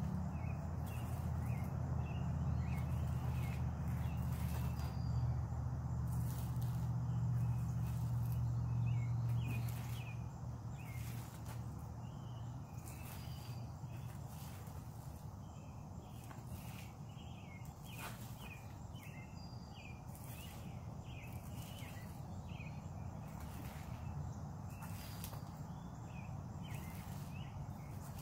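Outdoor ambience: birds giving short, repeated chirps over a low steady hum that fades about ten seconds in, with scattered faint clicks.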